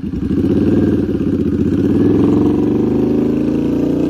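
Motorcycle engine accelerating away from a standstill, its pitch rising steadily as the bike pulls off.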